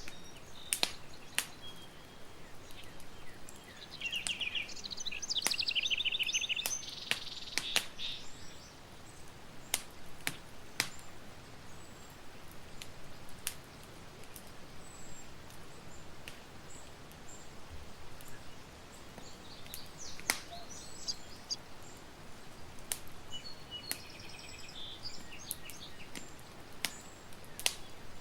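Campfire crackling, with sharp pops at irregular moments over a steady hiss. Birds sing in quick trills, first about four to eight seconds in and again in the last third.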